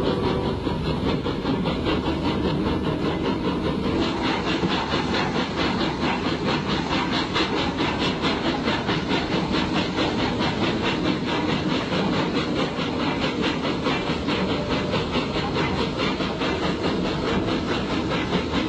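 Steam locomotive running along the line, with a steady hiss of steam and, from a few seconds in, a quick, even rhythmic beat.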